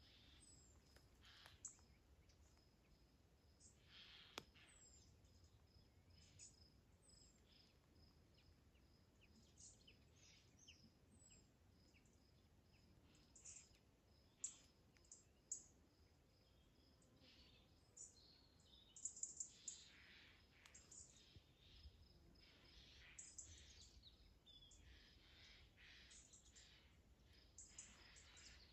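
Faint wild birds chirping and calling in short, scattered notes, busiest in brief clusters, over a faint steady high buzz.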